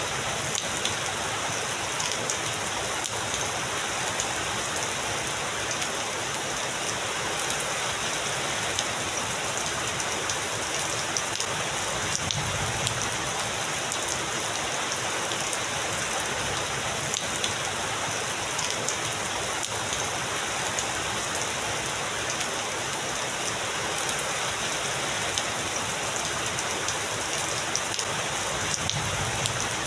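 Heavy rain falling steadily, a dense even hiss with many individual drops ticking on surfaces.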